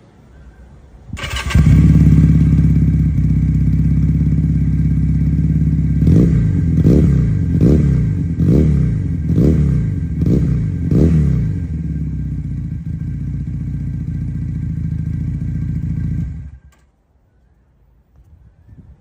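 250 cc twin-cylinder motorcycle engine on its stock exhaust header, started about a second in and settling into a steady idle. It is blipped up and down about seven times in quick succession, returns to idle, and is switched off suddenly near the end.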